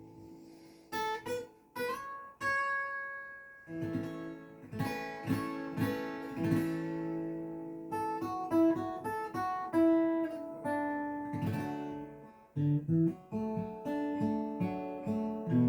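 Acoustic guitar playing an instrumental piece, plucked single notes and strummed chords that ring and fade. It opens with a brief pause as the previous chord dies away.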